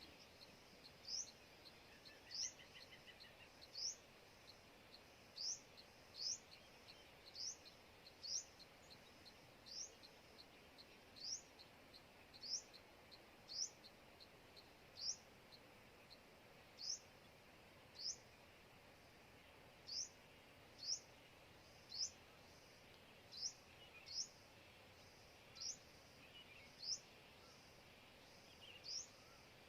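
A bird repeating a single short, sharply rising high chirp about once every second or so.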